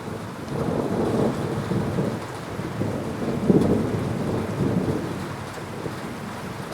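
Thunder rumbling over steady heavy rain: the rumble swells about half a second in, peaks about halfway through and fades away toward the end.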